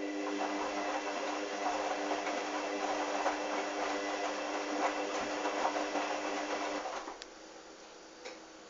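Hoover washing machine's motor turning the drum during the wash, a steady hum over the noise of the tumbling load, cutting out about seven seconds in. A few short clicks follow.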